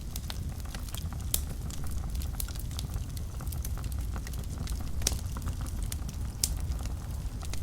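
Wood fire burning in a fireplace: a steady low rumble of flame with frequent irregular crackles and pops, a few sharper snaps standing out.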